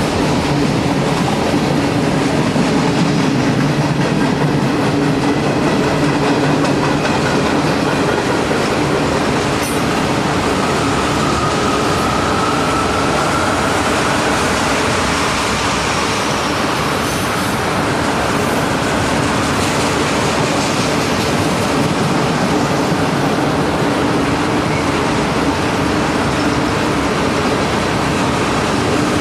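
Cars of a long mixed freight train rolling steadily past, wheels running over the rails, with a faint high wheel squeal about eleven seconds in.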